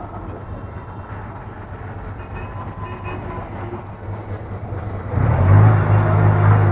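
A steady low rumble, then about five seconds in a loud, deep horn blast held for about a second and a half.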